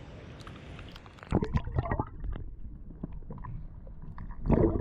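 River water sloshing and gurgling close to the microphone, with scattered small splashes and knocks and a louder burst near the end.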